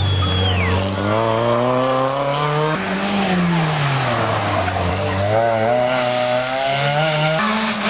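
Rally car engine revving hard. Its pitch climbs, drops sharply about three seconds in, falls away steadily as the car slows, then climbs again and drops once more near the end.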